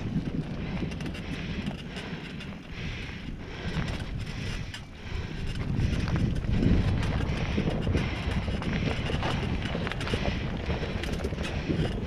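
Wind buffeting an action camera's microphone on a moving mountain bike, with tyres rolling over a dirt trail and many small rattles and clicks from the bike. The rumble grows louder about halfway through.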